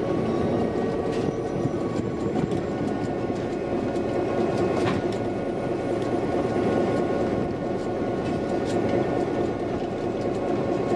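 Passenger railcar rolling along the track, heard from inside the car: a steady rumble of wheels on rail, with scattered clicks and knocks and a faint thin ringing above it.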